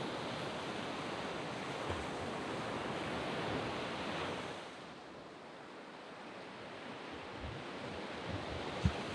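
Waves breaking and washing up a sand beach: the surf swells, eases off about halfway, then builds again toward the end. A brief low thump comes just before the end.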